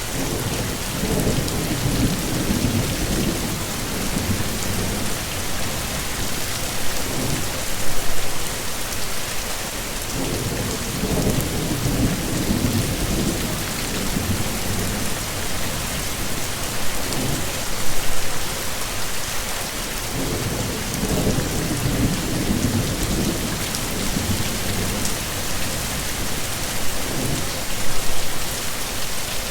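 Steady heavy rain with low rolling rumbles of thunder that swell and fade over a few seconds, recurring about every ten seconds along with brief louder spikes.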